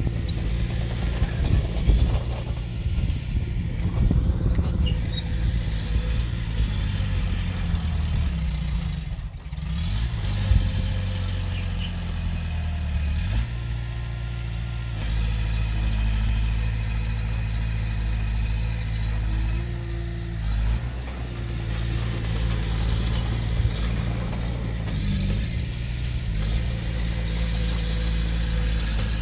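Diesel engine of earth-moving machinery running steadily under varying load, its pitch rising and falling a few times, with light clatter.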